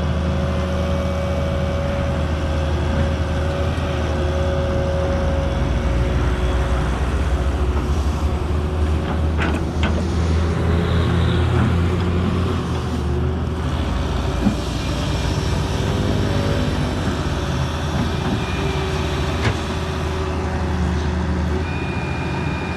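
Excavator's diesel engine running steadily, its pitch and loudness shifting through the middle as it works under load. A few sharp knocks break in, around ten, fourteen and nineteen seconds in.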